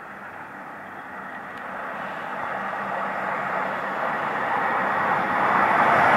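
A train approaching along the line, its rushing noise growing steadily louder.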